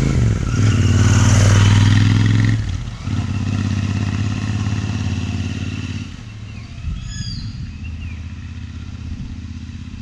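Royal Enfield Interceptor 650's parallel-twin engine pulling away under throttle, loud for the first two and a half seconds, then a brief break and a steady run at one pitch. The engine sound drops off about six seconds in.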